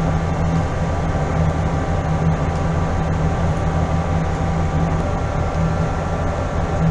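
Steady machinery hum at a constant pitch, unchanging throughout.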